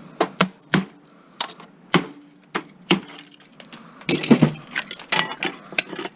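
Irregular sharp clacks and knocks of small metal parts being pried and popped off a satellite dish feed horn, with a denser flurry about four seconds in. A couple of the knocks ring briefly.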